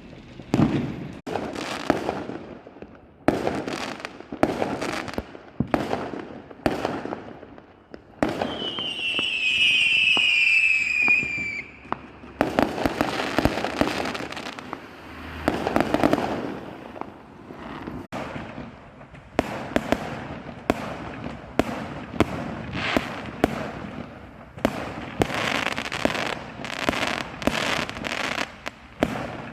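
Fireworks going off in quick succession: sharp bangs and crackling bursts throughout, with one whistling firework about eight seconds in, its whistle falling in pitch over about four seconds.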